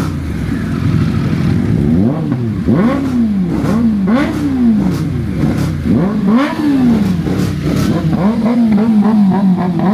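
Motorcycle engine being revved with repeated throttle blips, the pitch jumping up and falling back several times, then held wavering near the end.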